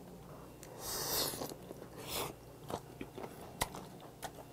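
A person chewing a mouthful of boiled hagfish close to the microphone. There are two short hissing rushes about one and two seconds in, then soft wet chewing with scattered small clicks.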